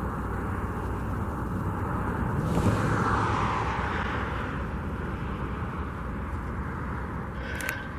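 Steady outdoor engine and traffic noise, with a passing engine that swells about two and a half seconds in and slowly fades away.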